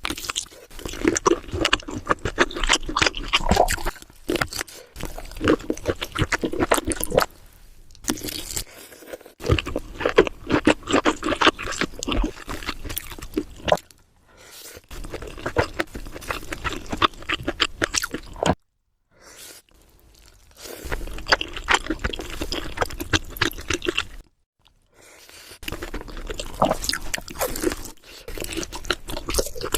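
Close-miked eating: chewing and mouth noises with crunchy clicks and wet, squishy smacks. The sound comes in several stretches, broken by short silent gaps where the clips are cut together.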